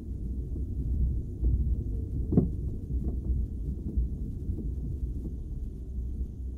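Campfire crackling, with scattered sharp pops, the loudest about two and a half seconds in, over a steady low rumble.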